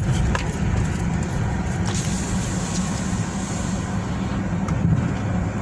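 Vehicle engine running with steady road and cabin noise, a constant low hum throughout.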